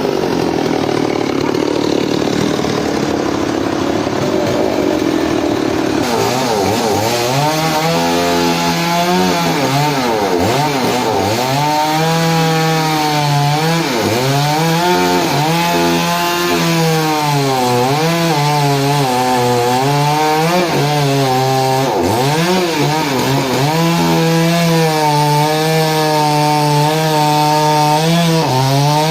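Engine-driven saw cutting through a large log. The engine's pitch dips and recovers again and again as the blade loads in the wood. For the first few seconds there is mostly a dense rasping noise; after that the engine note is clearly heard.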